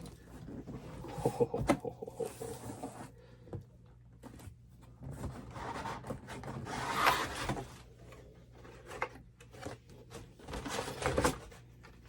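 Cardboard shipping packaging being handled and pulled apart: irregular rustling and rubbing with scattered knocks, and a louder scraping rustle about seven seconds in.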